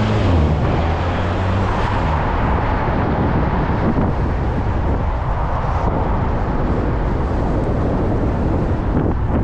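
Steady wind noise buffeting the microphone while riding, mixed with traffic, and a vehicle engine's hum that fades out about two seconds in.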